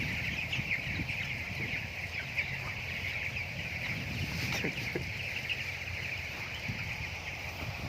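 A flock of broiler chickens calling together: many overlapping short, high peeps running on steadily.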